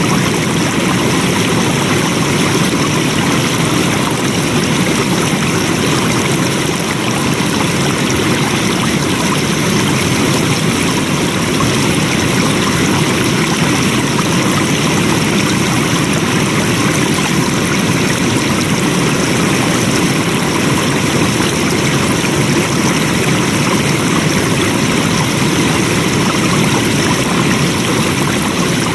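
Flowing water running steadily in a constant, even rush.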